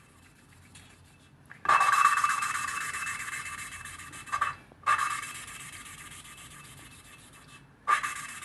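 A new exhaust valve being lapped into its seat in a KTM 950 SM cylinder head with fine grinding paste: a gritty grinding rub with a ringing note, in three runs that each start loud and fade.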